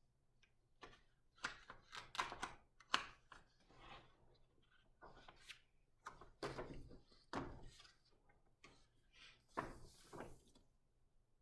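Faint handling noises of a large picture book: a string of soft knocks and papery rustles as the pages are turned, with a longer papery swish about ten seconds in.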